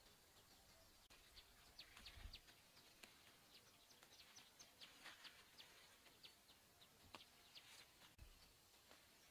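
Faint chirping of small birds, many short high chirps a few a second, over near silence, with two soft low thumps.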